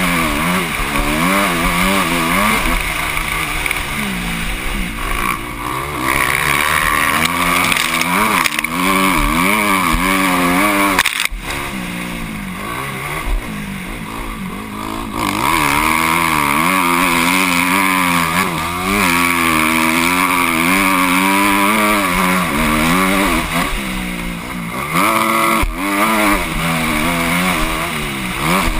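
Motocross motorcycle engine racing, its pitch rising and falling over and over as the rider opens and closes the throttle and shifts, heard from the rider's helmet camera. There is a short sudden drop-out about eleven seconds in, and the engine eases off for a few seconds after it before pulling hard again.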